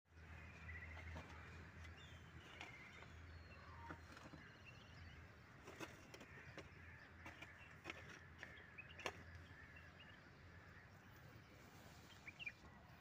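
Near silence: faint outdoor ambience with occasional small bird chirps and a few faint clicks.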